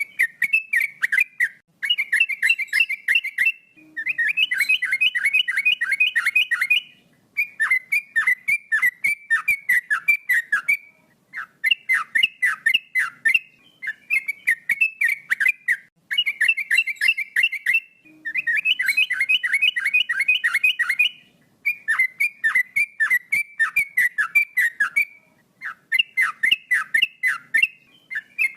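Male yellow-vented bulbul (trucuk) singing energetically: repeated phrases of fast, bubbling chirps, each phrase one to three seconds long with short pauses between.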